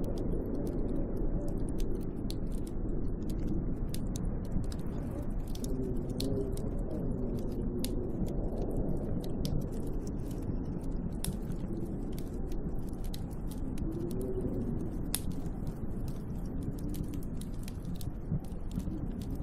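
Snowstorm wind rushing and howling in gusts that rise and fall in pitch, with a scatter of sharp little ticks and crackles throughout.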